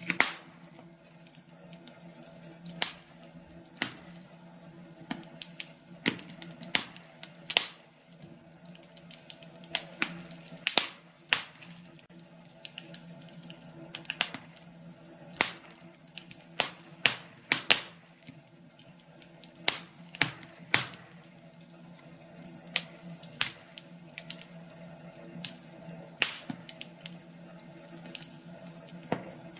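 Wood fire crackling: irregular sharp pops and snaps, some loud, over a low steady hum.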